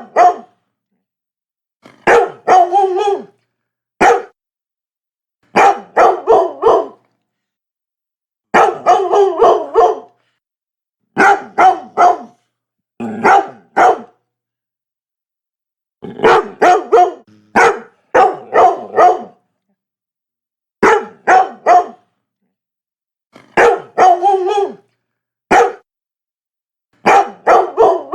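Labrador barking in short bursts of two to five barks each, a new burst every couple of seconds, with silence between bursts.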